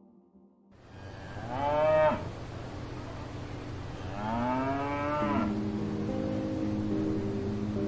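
Cow mooing twice: two long calls that rise and then fall in pitch, the second longer than the first.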